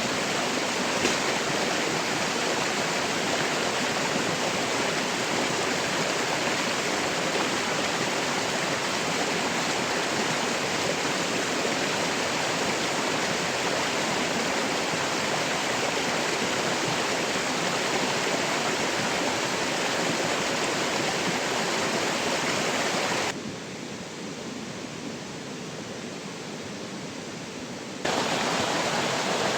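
Steady rushing of water, an even loud noise with no distinct events. About 23 s in it suddenly turns quieter and duller for about five seconds, then comes back just as suddenly.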